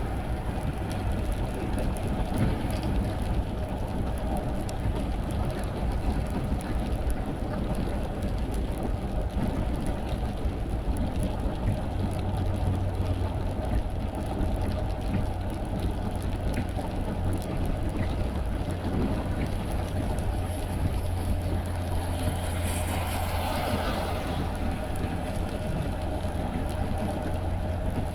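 Car driving in the rain: steady engine and tyre drone on a wet road with rain noise over it. A low steady hum from the engine or drivetrain grows stronger about halfway through.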